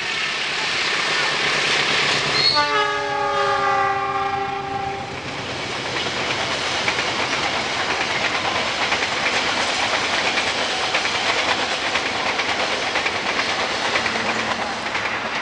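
A train passing close by, with the steady rumble and clatter of its wheels on the rails. A couple of seconds in, its multi-tone horn sounds for about two and a half seconds.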